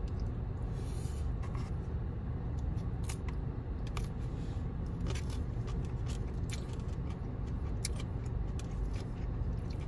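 Steady low rumble of an idling car heard inside the cabin, with scattered small clicks of chewing and chopsticks against the food.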